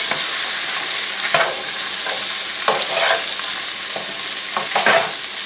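Fresh corn kernels sizzling as they fry in hot bacon grease, stirred with a spatula that scrapes across the pan several times.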